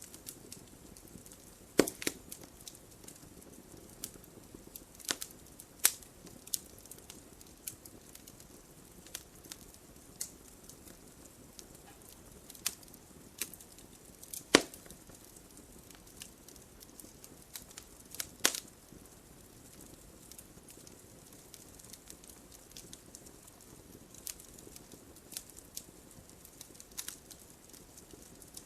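Wood fire burning in a fireplace, crackling with scattered sharp pops over a soft steady hiss; the loudest pop comes about halfway through.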